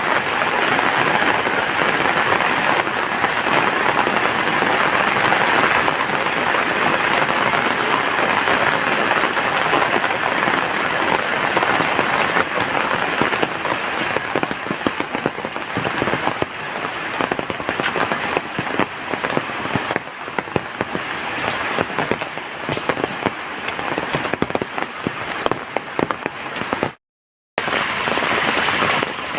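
Heavy rain falling, a dense steady patter of many individual drops hitting surfaces. The sound cuts out completely for about half a second near the end, then the rain resumes.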